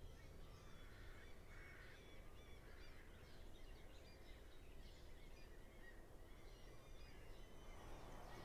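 Faint outdoor ambience: scattered short bird calls over a low, steady rumble.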